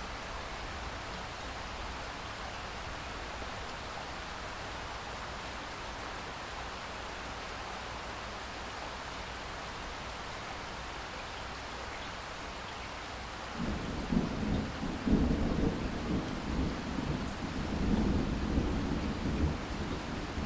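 Steady rain hissing down, then a low roll of thunder begins about two-thirds of the way in and rumbles on unevenly, louder than the rain.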